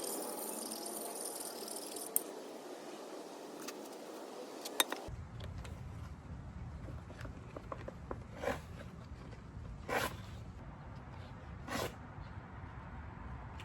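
Sharpening stone scraping along an axe's bit to hone the edge: a steady scraping for the first few seconds, then a few separate short strokes in the second half, roughly a second and a half apart.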